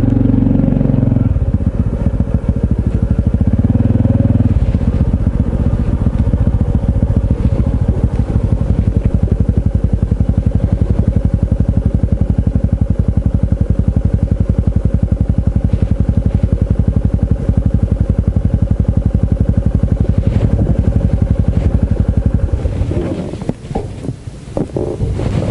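Honda CT125 Hunter Cub's 125 cc air-cooled single-cylinder engine running at a low, even putter, its separate firing pulses audible. There are two short higher, steadier stretches in the first five seconds, and the engine sound breaks up unevenly about 23 seconds in.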